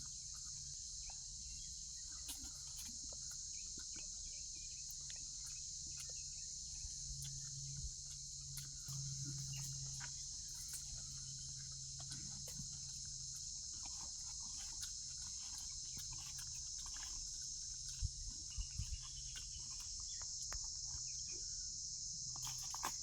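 Steady, high-pitched insect chorus, like crickets, running without a break, over a low steady hum and scattered small clicks and knocks.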